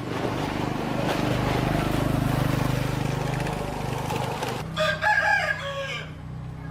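A rooster crows once, briefly, about five seconds in. Under it runs a steady low hum, with a rushing noise that fades out just before the crow.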